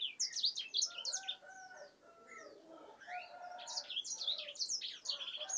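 Small birds chirping: many quick, high chirps that slide downward, with a few steadier lower whistled notes and a brief lull about two seconds in.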